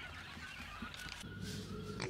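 Poultry calling, with a steady low hum setting in about halfway through.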